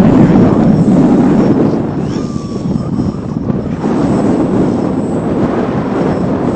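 Strong wind buffeting the microphone in a loud, gusting rumble that eases about two seconds in and builds again, with the brushless electric motor and propeller of a small RC aerobatic plane faintly heard under it.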